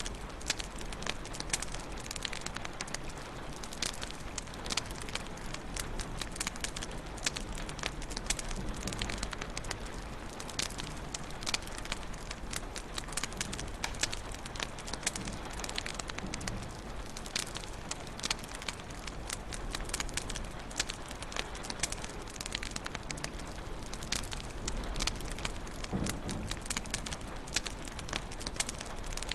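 Wood fire burning in a fireplace, crackling and popping continuously with many irregular small snaps over a steady hiss of flames.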